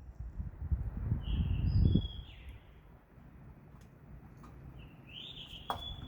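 Bird calls: short, high chirps in a cluster about a second in and again near the end, over a low rumble that is loudest in the first two seconds.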